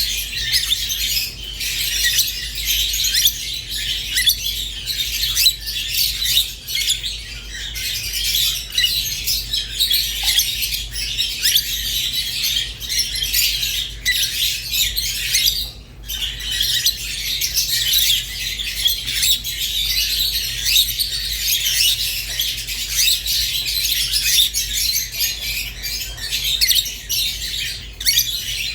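A group of pet lovebirds, rosy-faced and Fischer's, chirping and squawking together in a dense, continuous high-pitched chatter.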